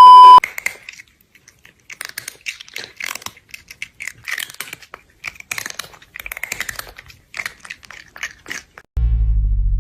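A loud steady beep cuts off about half a second in. Then come several seconds of irregular crunchy chewing, as of crunchy food being eaten. Synth music with a deep bass comes in near the end.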